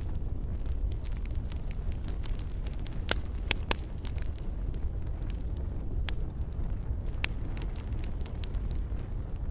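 Wood fire in a fireplace crackling, with scattered sharp pops over a steady low rumble; a few louder pops come close together about three to four seconds in.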